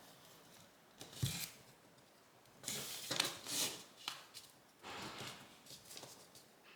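Origami paper being folded and creased by hand: faint paper rustling in a few short bursts, the longest about three seconds in.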